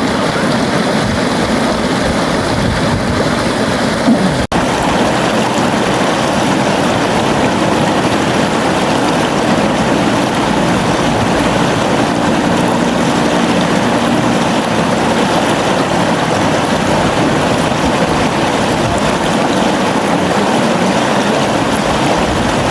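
A river flowing, its water rushing in a steady, even noise. About four and a half seconds in there is one sudden split-second dropout.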